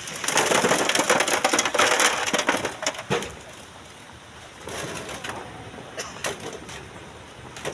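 Loose sand and stones sliding and pouring, a gritty crackling rush for about three seconds, then a smaller rush of the same kind near the middle.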